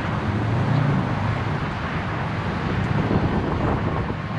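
Outdoor ambience with a steady low vehicle engine hum and wind noise on the microphone.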